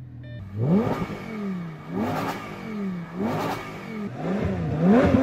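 A car engine being revved over and over. Each rev rises quickly in pitch and then falls back, about once a second, and the revs come faster near the end.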